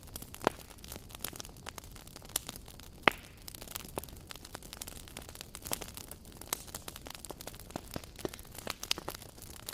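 Wood fire crackling: irregular sharp pops and snaps over a low steady hiss, with two louder pops about half a second and three seconds in.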